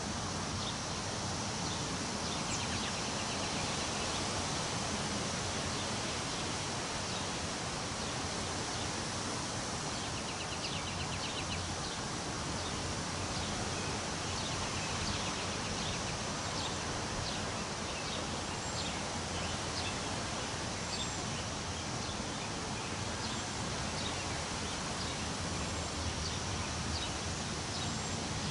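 Wind blowing steadily through tree leaves, a constant rustling hiss. Small birds chirp now and then throughout, with a short rapid trill near the start and another about ten seconds in.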